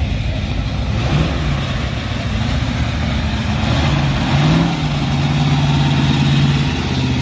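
Classic car engine running, its pitch stepping up about a second in and again past four seconds and then holding steady.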